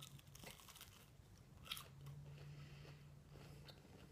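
Faint crunching and chewing of a battered fried onion ring, quiet crackles, with one sharper crunch a little under halfway.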